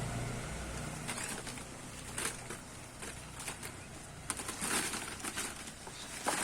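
Betel leaves being plucked by hand from the vine: a series of short crisp snaps and leaf rustles, irregularly spaced, with a longer rustle about five seconds in and the loudest snap near the end.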